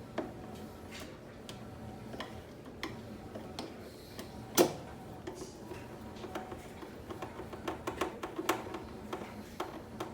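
Light clicks and taps of screws being driven into a plastic air fryer housing with a screwdriver, with one sharper click about halfway through and quicker clicking towards the end.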